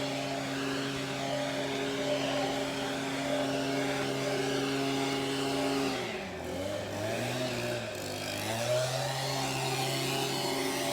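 An engine running steadily. About six seconds in its pitch drops and wavers up and down, then it settles back to a steady run.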